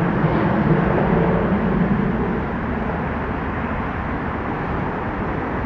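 Jet airliner engines rumbling steadily, with a low hum that fades about halfway through as the aircraft moves away.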